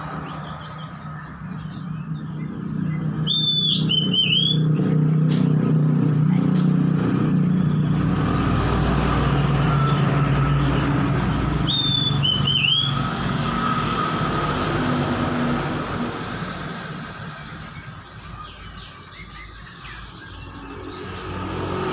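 A motor vehicle's low rumble builds, holds for about ten seconds, then fades away. Over it an oriental magpie-robin sings two short whistled phrases, one a few seconds in and one about halfway through.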